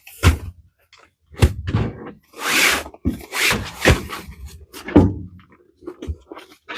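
Handling noise: a string of knocks, thumps and brief rustles, about half a dozen separate events, as things are picked up and moved.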